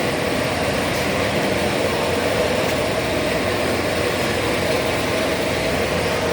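Steady, unbroken machine drone with a faint steady hum.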